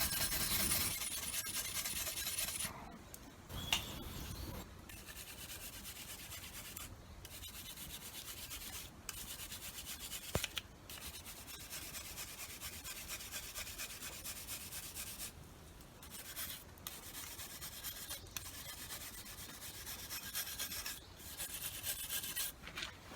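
Long rasping strokes of a metal tool being filed or honed, one stroke about every two seconds with short pauses between.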